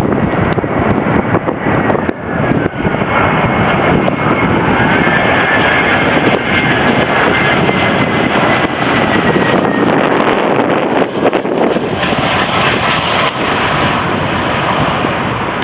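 Airbus A319 jet engines on a landing approach: a loud, steady rush of engine noise with a high whine that steps down in pitch.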